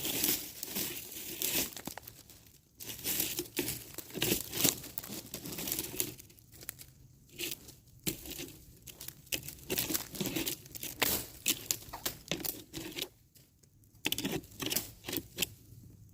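Footsteps crunching and rustling through dry leaves and brush, irregular and continuous, with a few short pauses between bouts.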